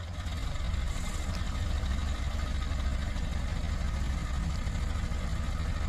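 Backhoe loader's diesel engine running steadily with a low, even hum.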